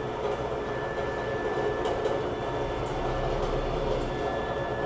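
A steady mechanical hum with a thin, high, steady whine, holding an even level throughout.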